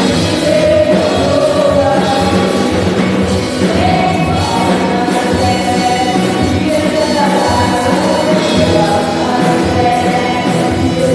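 Live worship band and singers performing a gospel praise song, with several voices singing sustained notes over a steady beat.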